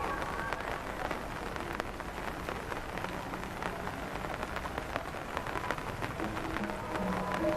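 Steady rain falling, with many small sharp drop impacts ticking throughout.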